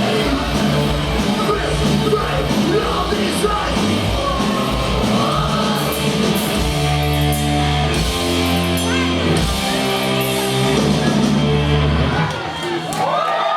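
Live punk band playing loud, distorted rock with drums, bass and yelled vocals. The band stops about a second before the end, leaving a shout from the room.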